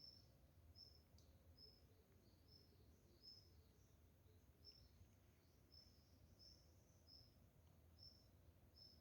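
Faint outdoor ambience: a short high chirp repeating about one and a half times a second over a low steady rumble of background noise.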